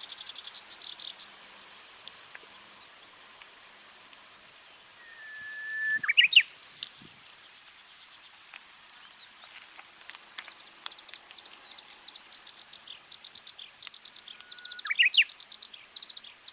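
Japanese bush warbler singing its 'hoo-hokekyo' song twice: each a long steady whistled note followed by a quick rising flourish. A fast, high pulsing trill runs underneath.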